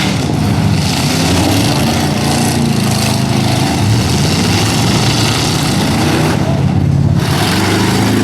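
Engines of several stock pickup trucks running loud, revving up again and again, with the pitch rising several times over a constant rumble.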